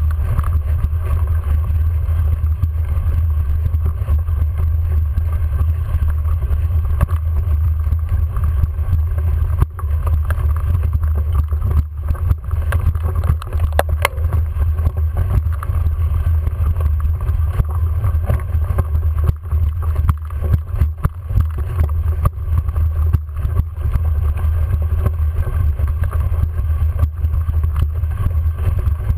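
Steady low rumble of wind buffeting a bike-mounted camera's microphone while riding, with a single sharp click about halfway through.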